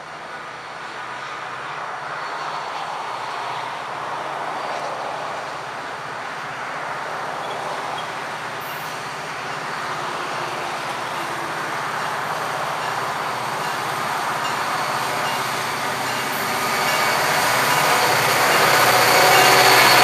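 Approaching diesel freight locomotives: a steady engine drone with rail noise, growing steadily louder as the train nears.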